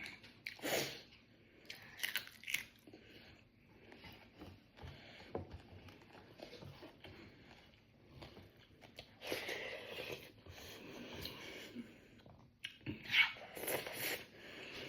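Close-up eating sounds: a person chewing mouthfuls of rice with fried cauliflower, potato and egg, with irregular bursts of crunching and mouth noise a few times.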